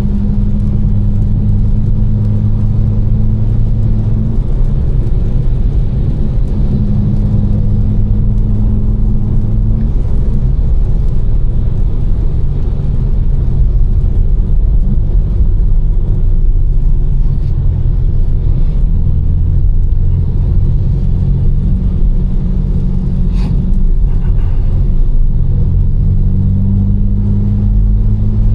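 Tuned BMW M4 twin-turbo inline-six, fitted with catless downpipes and an Fi exhaust, droning at cruise under steady road noise. Its note steps up and down in pitch a few times as speed or gear changes. A single short click comes near the end.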